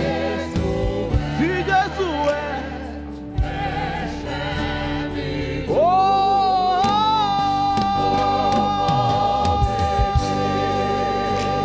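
Live gospel worship music with a choir singing; about halfway through, one long note is held for several seconds.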